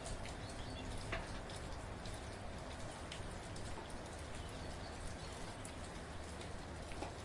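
Steady, gentle rain: an even hiss with scattered individual drops ticking on a surface.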